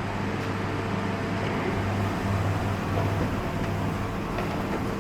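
Steady low mechanical hum of a printing-factory hall's background equipment, with a few faint clicks.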